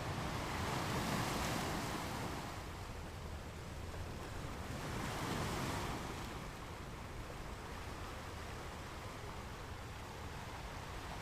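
Ocean waves washing on a shore: two waves swell and break, about a second in and again around five seconds in, with a steady wash of surf between and after.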